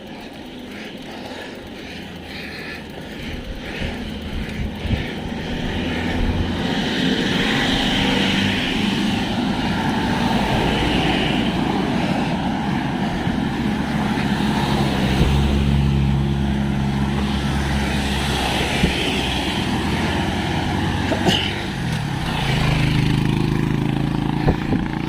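Road traffic: motor vehicle engines running close by, over a steady rush of wind and road noise. It builds over the first few seconds, and an engine's low hum stands out twice in the second half.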